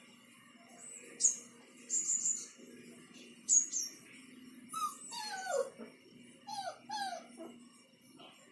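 A dog whining in several falling cries, bunched in the second half, the sound of a dog anxious at being left alone. Short high chirps sound in the first half.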